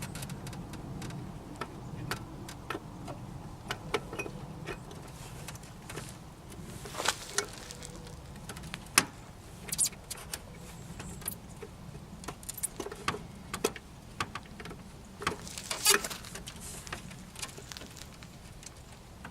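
Scattered clicks, taps and light rattles of plastic and metal parts being handled and pushed into place while a headlight assembly is fitted, over a low steady hum.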